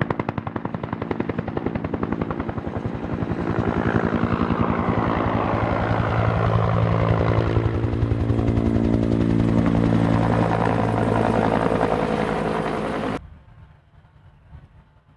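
Helicopter flying low past, its rotor blades chopping fast with a loud turbine whine whose pitch drops as it goes by. The sound cuts off abruptly near the end.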